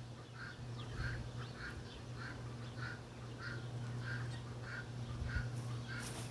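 An animal calling in short, evenly repeated notes, about one and a half calls a second, over a steady low hum.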